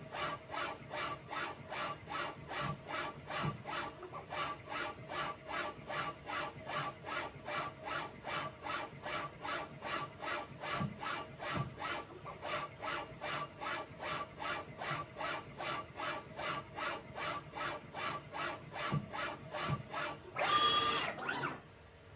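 CNC lathe broaching: the carriage drives a broaching tool in and out of the bore, each cutting stroke a short scrape, about two and a half strokes a second in a steady rhythm. Near the end comes a louder whir lasting about a second, then the machine stops.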